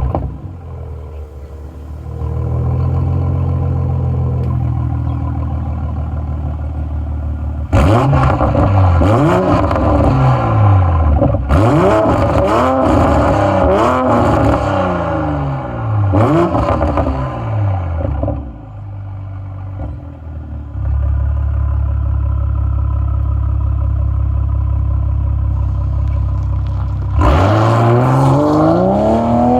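Toyota A90 Supra engine breathing through an HKS Super Sport cat-back exhaust and a Wagner catted downpipe, revved while parked: it settles to a steady idle, is blipped up and down several times in quick succession, idles again, then revs once more near the end.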